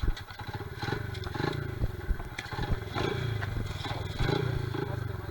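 Honda XR70R pit bike's small four-stroke single-cylinder engine running, swelling and dropping in short throttle blips, with a few sharp knocks and some clatter.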